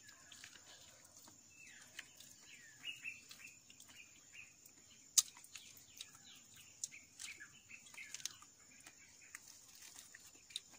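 Faint bird chirps outdoors: many short, quick calls scattered throughout, with one sharp click about five seconds in.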